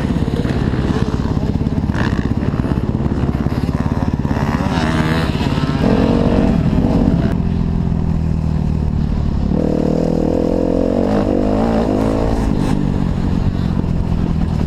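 Kawasaki KX250F four-stroke single-cylinder motocross engine running hard on the track, its revs rising and falling with the throttle. It is loudest about six seconds in.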